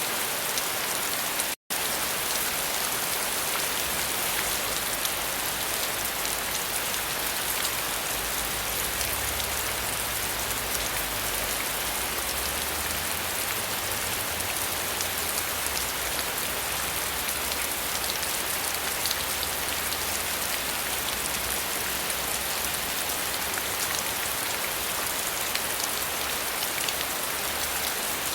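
Steady rain falling, an even hiss of many drops, broken by a split-second gap of silence about a second and a half in.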